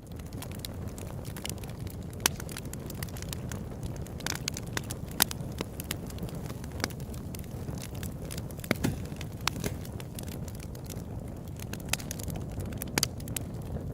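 Open campfire burning: a steady low rush of flame with irregular sharp crackles and pops from the burning wood, a few of them louder snaps.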